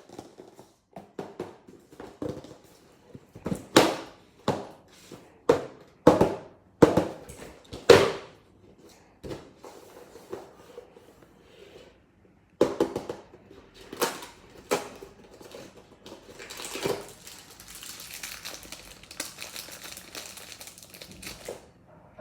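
Plastic packaging being handled and opened: sharp, irregular crinkles and crackles, then a longer stretch of steady rustling and crumpling near the end.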